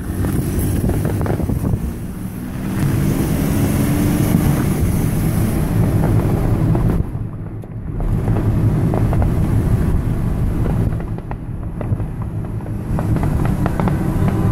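A steady low rumble with faint cracks and pops from a distant fireworks display.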